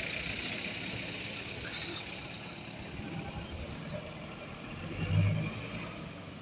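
Bus engine running as the bus moves off, its sound slowly fading. A short, loud low thump comes about five seconds in.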